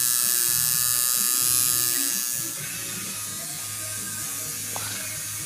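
Electric hair clippers buzzing steadily, becoming quieter a little over two seconds in.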